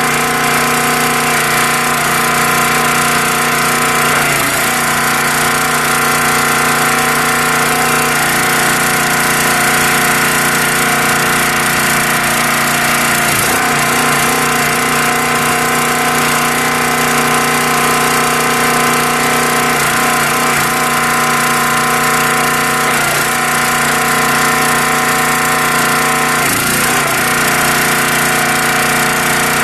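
Small gasoline engine on a new County Line log splitter running steadily at constant speed on its first start, with a few brief wavers in its note.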